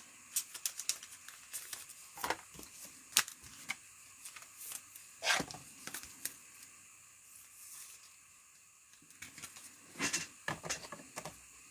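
Foil trading-card pack wrappers crinkling and tearing in irregular short crackles as packs are handled and opened.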